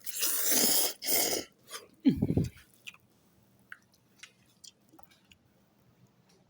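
Ramen noodles being slurped: two loud hissing slurps in the first second and a half, then a short low throaty sound, then soft chewing clicks.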